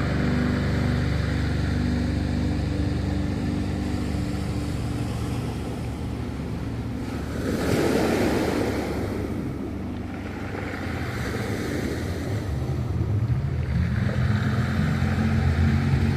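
Ocean waves breaking and washing in, the loudest surge about halfway through, with further swells after it. Soft background music fades out early on and comes back near the end.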